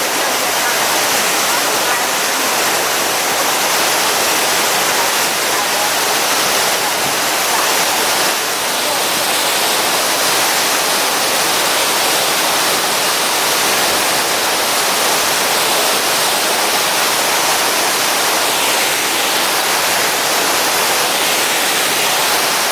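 Waterfall's falling water rushing in a loud, steady wash of noise.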